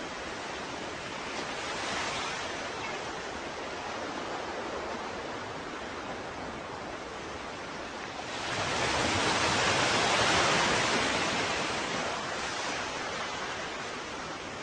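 Ocean waves washing in over a steady background of surf. One small wave swells about two seconds in, and a bigger, louder wave breaks and rushes up about eight seconds in, then dies away.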